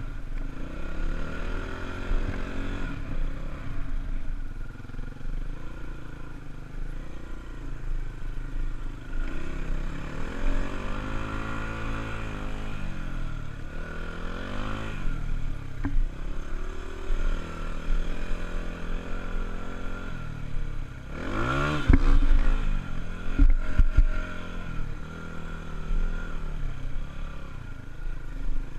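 Honda dirt bike engine running and revving up and down. About three quarters through, the revs climb sharply to the loudest point, with a few sharp knocks just after.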